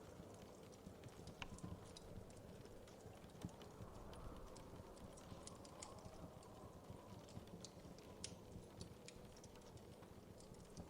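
Wood fire crackling in a fireplace: quiet, irregular pops and snaps over a soft, steady low rumble of the burning fire.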